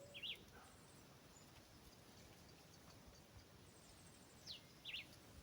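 Quiet outdoor background with a few faint, short bird chirps: two just after the start and two more near the end.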